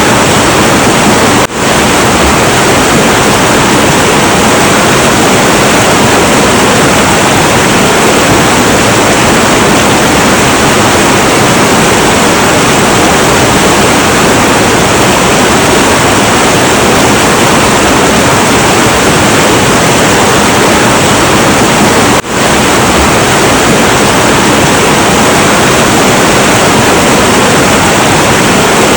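Heavy, turbulent river running: a steady, dense rush of water. The sound dips for an instant twice, about a second and a half in and again about three-quarters of the way through.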